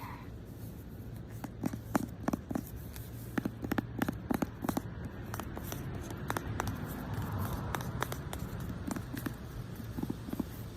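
A deck of oracle cards being handled, giving a run of light taps and clicks, over a steady low rumble of traffic.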